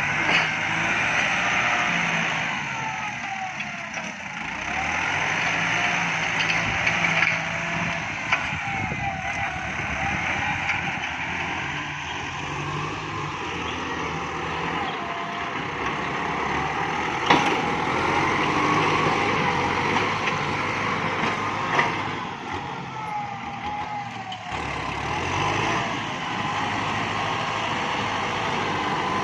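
Kubota MU5702 tractor's diesel engine running under working load, with a whine that rises and falls in pitch. A sharp knock about halfway through and another a few seconds later.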